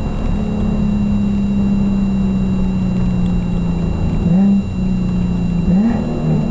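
Nissan 370Z's 3.7-litre V6 heard from inside the cabin through a Stillen exhaust and Berk high-flow cats: a steady drone whose pitch sags slowly, then jumps up sharply twice, about four and six seconds in.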